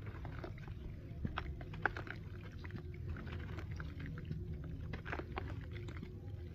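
Gritty dried cement crumbling and crunching, a dense run of small sharp crackles over a steady low rumble.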